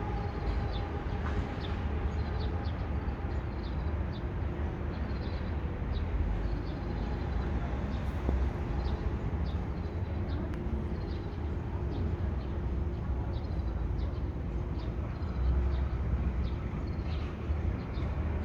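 Outdoor ambience: a steady low rumble with short, high chirps repeating irregularly throughout, and a steady hum that fades away in the first few seconds.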